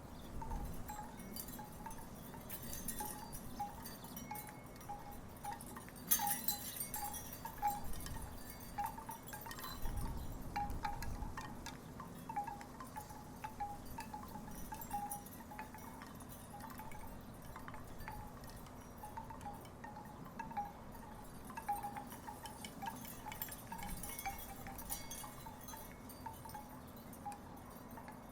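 Wooden tiki wind chimes knocking together irregularly in the breeze: a steady patter of short clacks, all at about the same pitch. Wind gusts rumble on the microphone now and then, most strongly about ten seconds in.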